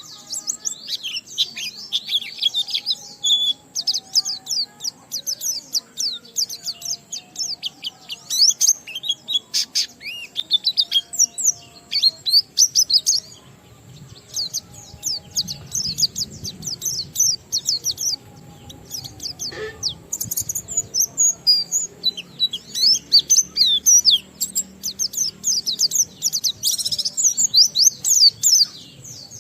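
A white-eye (pleci) singing its fast, continuous 'ngalas' song: long runs of rapid high chirps and trills, broken by a lull of a few seconds around the middle.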